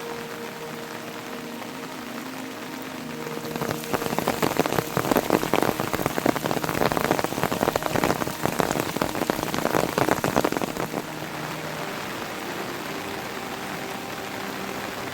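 Steady heavy rain falling. From about four seconds in until about eleven seconds, a closer, louder patter of dense drops hitting a surface rises over it, then eases back to the steady rain.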